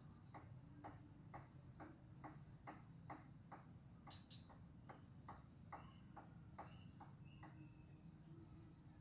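Frogs calling with short, sharp clicking notes, roughly two to three a second in an uneven run, faint against a low background rumble. A few brief high chirps join in during the second half.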